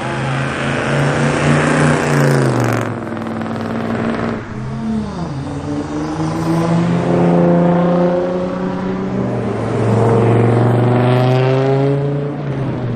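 Car engine accelerating hard as a car pulls away. The pitch drops sharply about three and five seconds in, then climbs in a long pull before falling away near the end.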